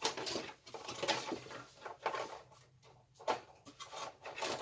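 Handling noise: irregular rustling with light clicks and knocks as things are picked up and moved about.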